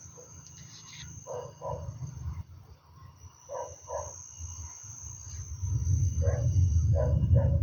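Frogs calling in short croaks, grouped in twos and threes, over a steady high insect trill. A low rumble swells up in the last two seconds.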